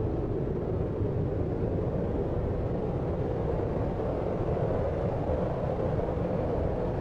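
Steady deep noise: a low, even rumble-like hiss sleep-aid track, weighted to the low end with nothing standing out and no change.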